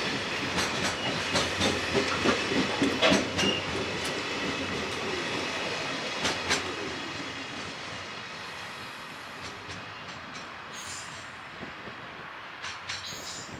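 Freight train wagons rolling past, the wheels knocking rhythmically over rail joints. The clatter fades steadily from about halfway through as the train moves away, leaving a fainter rumble with a few scattered clicks.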